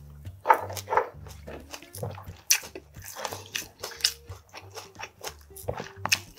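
Close-miked chewing of a mouthful of food, with many short wet crunches and smacks, over faint background music.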